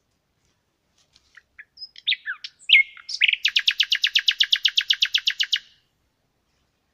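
A songbird singing one song: a few scattered high notes, then some sweeping notes, then a fast, even trill of about ten notes a second that stops abruptly.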